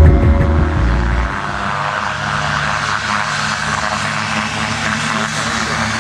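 Propeller aircraft's piston engine running steadily, after loud music cuts away about a second in.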